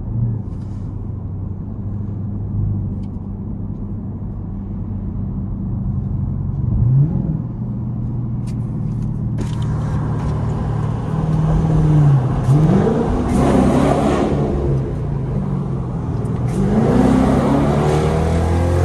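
Straight-piped Dodge Durango R/T V8 exhaust droning steadily at cruise. In the second half it gets much louder and rises in pitch in two or three separate pulls as the engine revs up under acceleration.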